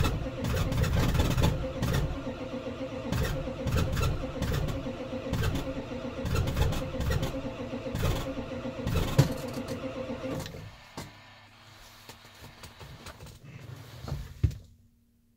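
Ford 7.3 Powerstroke diesel V8 being cranked by its starter in the cold, labouring through uneven compression strokes about twice a second without catching. The cranking stops about two-thirds of the way in, leaving a faint hum and a sharp click just before it goes quiet. The owner puts the hard start down to a couple of low-compression cylinders and a glow plug or two that's not quite right.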